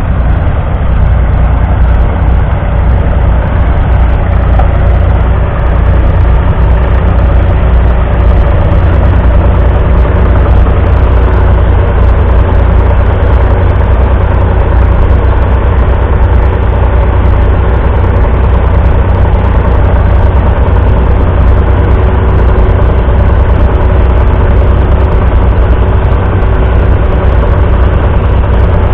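1974 Ford 4000's 3.3-litre three-cylinder diesel engine running steadily at an even speed, loud and low-pitched.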